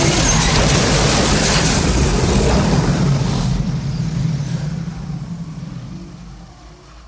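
A loud rushing roar with a deep rumble under it, dying away steadily over the last four seconds.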